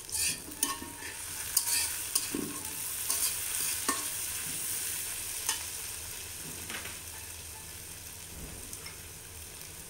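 Chopped tomatoes sizzling as they hit hot mustard oil and fried onions in a kadai, with a metal spatula scraping and knocking against the pan as it stirs. The frying hiss is strongest over the first several seconds, then dies down gradually.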